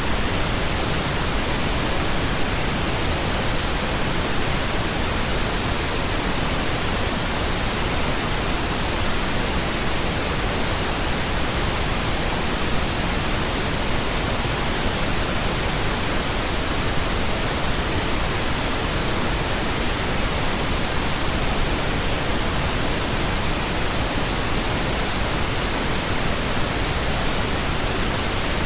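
Steady pink noise, an even unchanging hiss spread across all pitches, with no breaks or changes.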